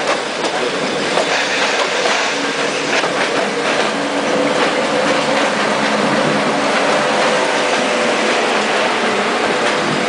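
A train running past on the rails, its wheels clattering in a continuous rush of noise with scattered clicks, and a steady tone held underneath.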